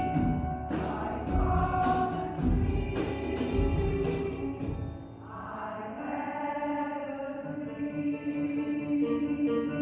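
A choir singing in concert. The first half has a rhythmic pulse of about two sharp accents a second; from about five seconds in, the voices hold a long sustained chord.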